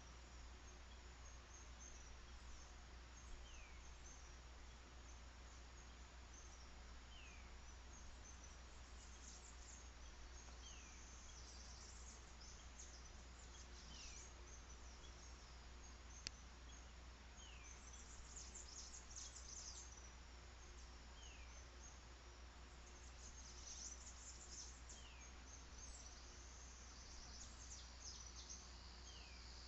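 Faint outdoor birdsong: one bird repeats a short, high, falling whistle about every three and a half seconds over scattered high chirping from birds and insects, with one sharp click about halfway through.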